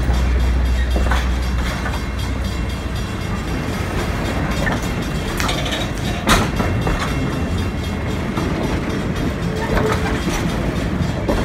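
Passenger coaches of an excursion train rolling past close by: a steady rumble of steel wheels on the rails, with sharp clacks now and then as the wheels cross rail joints.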